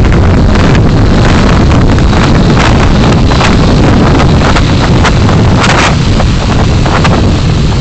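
Loud, steady rumble of wind and road noise from a car being driven, picked up by a dashcam microphone, with a few brief crackles, the longest about two thirds of the way in.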